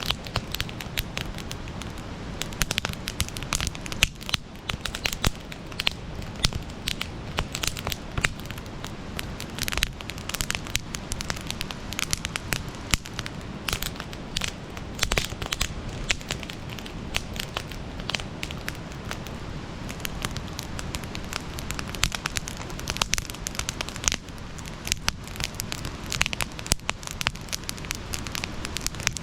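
Campfire burning, with frequent sharp crackles and pops over a steady low rush.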